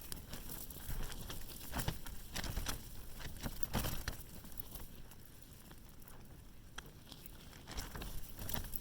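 Tent fabric flapping and rattling in gusty wind, with a low rumble of wind. The gusts come and go: stronger in the first few seconds, easing in the middle and building again near the end.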